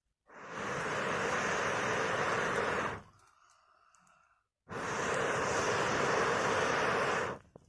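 Air blown through a fire-blowing pipe into a campfire: two long, steady rushes of air, each about two and a half seconds, with a short pause for breath between.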